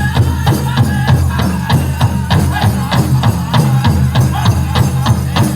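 Powwow drum group singing a chicken dance song: a fast, steady beat on a large powwow drum under group singing.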